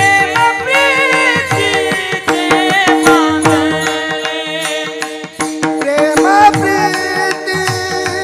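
Warkari bhajan singing: a voice sings long, ornamented held notes over steady drone notes, while taal hand cymbals and a drum keep a steady beat.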